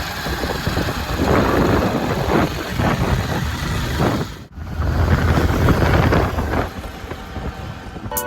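A road vehicle running on the move, with wind buffeting the microphone, and a brief drop-out about four and a half seconds in.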